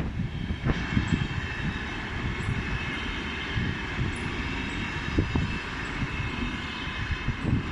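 Freight train passing at speed: the wagons rumble over the rails with uneven knocks, and a steady high ringing runs over the top.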